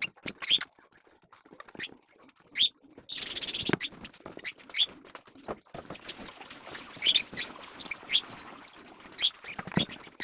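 Lovebird giving short, high chirps every second or two, with a brief burst of hiss about three seconds in.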